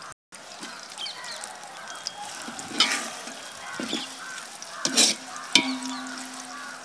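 Green chillies and onions sizzling in hot oil in a metal pot while a metal ladle stirs and scrapes, with a few sharp knocks of the ladle against the pot, near three seconds and twice around five seconds.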